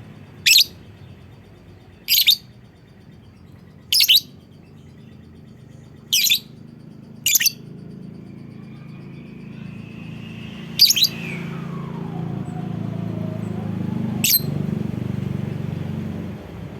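A lovebird giving short, shrill single calls, seven in all, one every one to three seconds. A low hum grows louder under them in the second half.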